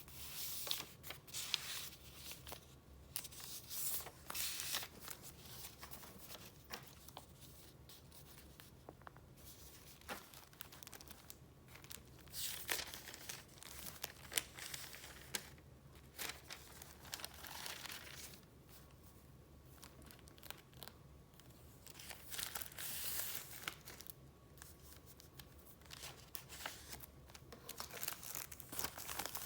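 Paper rustling and crinkling as sheets in a file are handled and flipped through, in irregular spells with small clicks and quieter pauses between.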